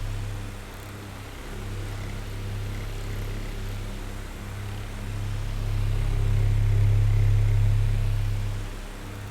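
Oscillating electric fan running: a steady low motor hum with a soft rush of air, swelling and fading as the fan head sweeps toward and away, loudest about seven seconds in.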